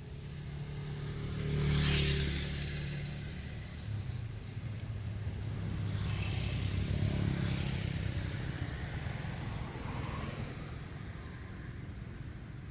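A motor vehicle's engine running, with a low hum that swells in loudness about two seconds in and again around seven seconds.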